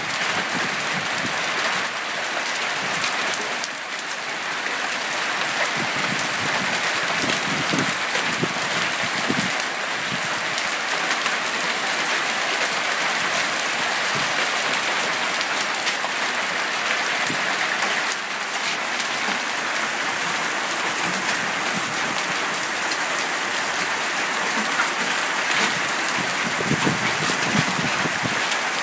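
Heavy hailstorm: a dense, steady clatter of hailstones pelting down on hard surfaces, with a few sharper single hits standing out.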